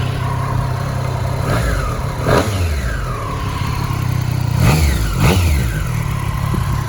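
Triumph Street Triple RS's 765 cc three-cylinder engine idling, revved in four short throttle blips that rise and fall in pitch, two of them close together about five seconds in.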